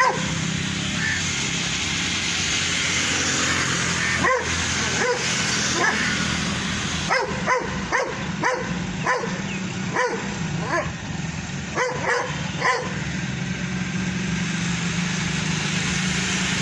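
Dogs barking in short, repeated barks, mostly bunched in the middle stretch, over a steady low hum and background noise.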